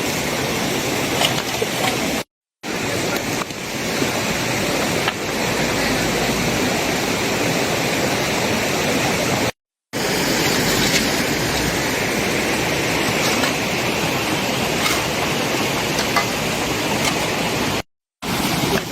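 Steady rushing noise of flowing water, broken by three brief dropouts to silence where the shots are cut together.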